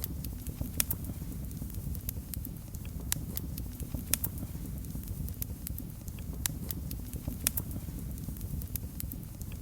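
Wood fire burning in a fireplace: a steady low rumble of flames with sharp, irregular crackles and pops, a few of them louder, about one, four and seven and a half seconds in.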